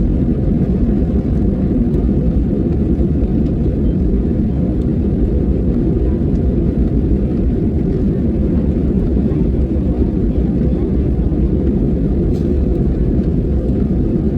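Steady low roar of an airliner's engines and airflow heard inside the passenger cabin, unchanging throughout.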